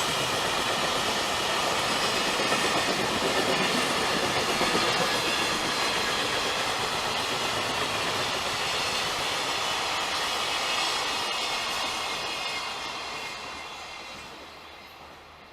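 Electric train running past on the tracks, a steady rush of wheel and rail noise that fades away over the last few seconds.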